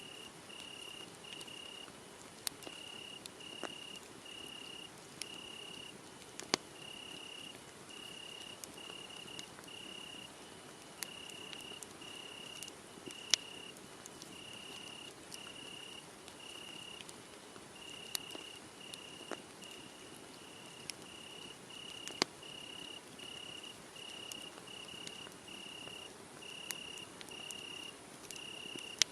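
Crickets chirping in a steady train of short, high, even-pitched chirps, about one or two a second. A wood fire crackles underneath with scattered sharp pops, the loudest about 13 and 22 seconds in.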